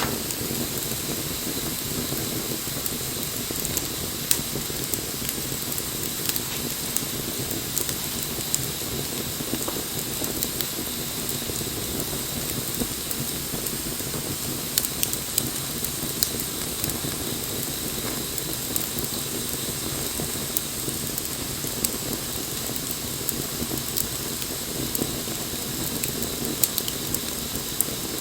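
Wood bonfire burning: a steady hiss with scattered sharp crackles and pops.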